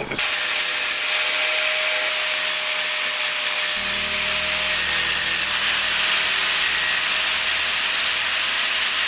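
Power grinder running steadily against the car's sheet-metal door post, grinding the edge down square. A deeper hum joins about four seconds in, and the grinding stops abruptly.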